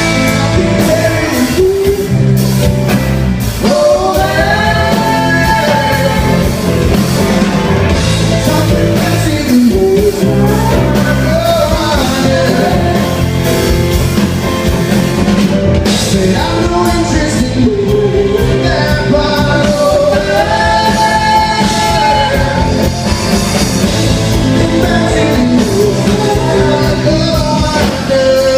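A rock band playing live: drums, bass and guitar under a sliding lead melody line.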